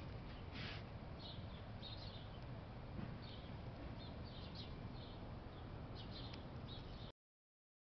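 Small birds chirping in short, scattered calls over a steady low rumble. The sound cuts off to dead silence near the end.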